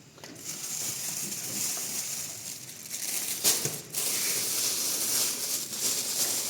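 Steady rustling, crinkling noise, with two sharp clicks about three and a half seconds in.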